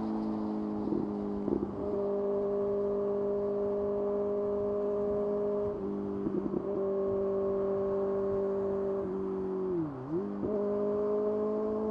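Kawasaki ZX-6R's 636 cc inline-four engine running at a steady cruising pitch under the rider, with brief throttle flutters about a second and a half and six seconds in. Near the end the engine note drops sharply and climbs straight back up as the throttle is closed and reopened.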